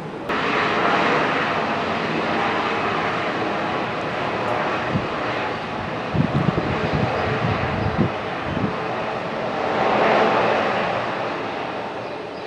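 Airbus A321 jet engines on a landing, a steady rushing roar that comes in abruptly, swells about ten seconds in and then eases off. There are a few low thumps midway.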